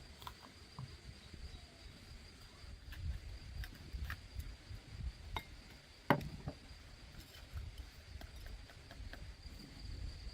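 Crickets or similar insects trilling steadily in one high, even tone. Small scattered clicks are heard, with one sharper knock about six seconds in, over a low rumble.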